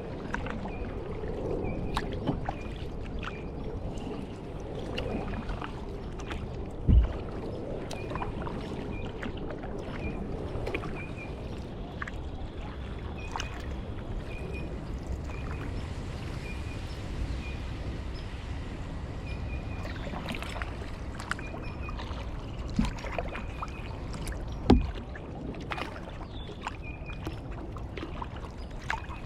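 Kayak paddling: a steady low wash of water against the hull and paddle, with scattered small clicks and drips. There are two heavier thumps, about seven seconds in and near the end, and faint short high chirps repeat about once a second in the background.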